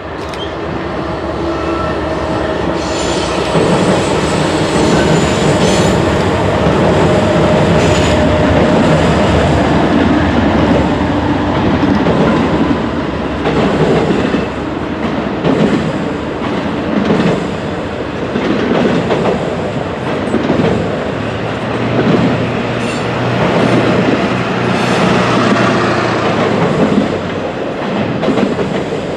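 Norfolk Southern double-stack container freight train crossing a steel girder bridge, loud and continuous. A steady engine tone from the locomotives in the first few seconds gives way to the container cars' wheels clattering in an even rhythm over the bridge.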